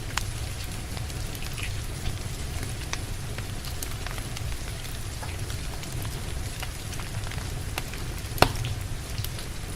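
Steady rain with a low rumble, and wood fire crackling over it in scattered sharp pops, one louder snap about eight seconds in.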